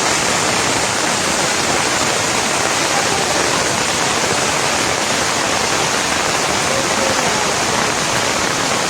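Loud, steady rush of water, an even noise with no breaks or separate drops.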